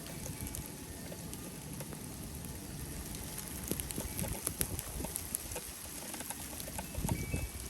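Snowstorm wind buffeting the microphone as a gusty low rumble, with scattered sharp ticks that cluster around the middle.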